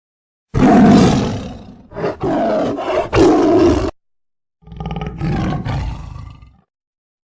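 Tiger roaring twice: a loud roar of several pulses, then a shorter, quieter one.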